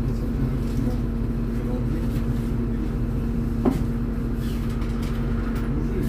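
MAZ-203 city bus heard from inside, its engine idling steadily with a constant low rumble and hum while the bus stands at a stop. A single short knock sounds about two thirds of the way in.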